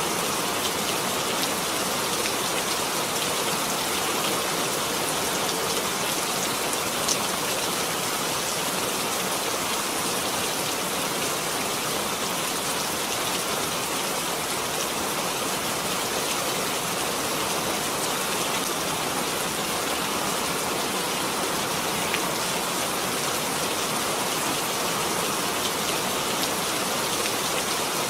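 Steady rain falling, an even hiss of drops with a couple of faint single drop ticks.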